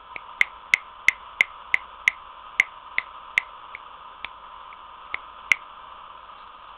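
A run of sharp clicks, about three a second, stopping about five and a half seconds in, over a steady hum.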